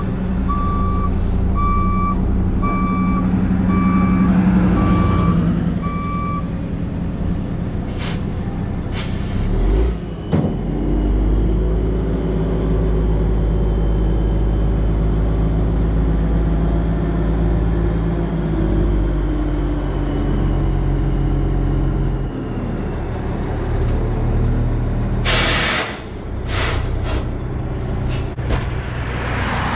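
Dump truck engine running under load while it spreads a load of rock down a dirt road, with a repeating warning beep, about one a second, for the first six seconds. Near the end come several sharp hissing bursts.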